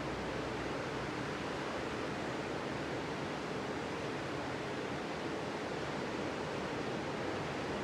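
Ocean surf on a beach: a steady wash of breaking waves.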